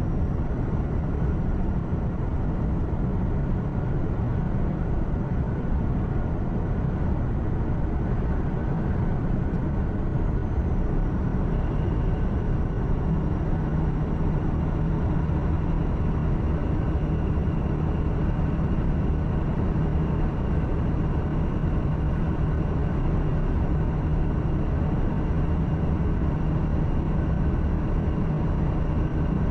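Steady drone inside a truck cab while driving: diesel engine hum mixed with road and tyre noise. A steady low hum grows more prominent about twelve seconds in.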